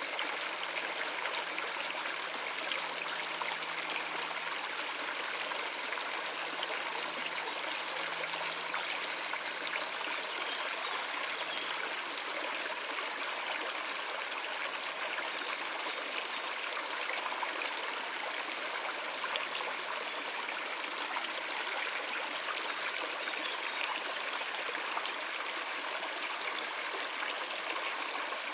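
A stream running over rocks, a steady rushing and trickling of water.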